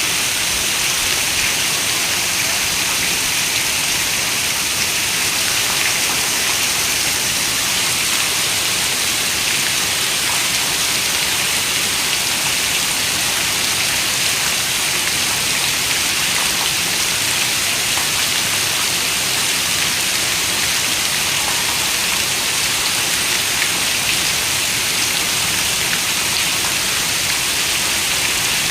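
Steady rain falling: a continuous, even hiss with faint scattered drop ticks.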